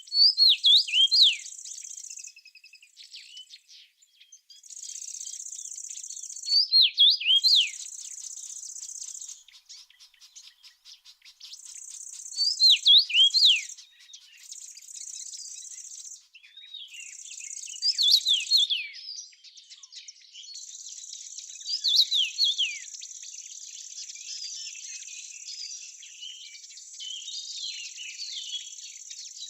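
A songbird singing short phrases of quick downward-sweeping whistled notes, one phrase about every five or six seconds, over a steady high insect buzz that stops and starts.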